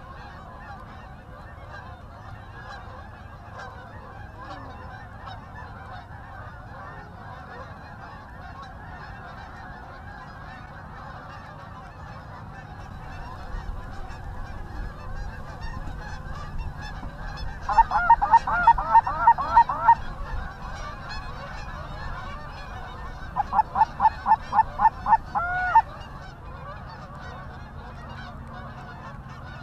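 Flock of Canada geese honking in a continuous chorus, with two runs of loud, rapid, evenly spaced honks close by, one past the middle and a second near the end.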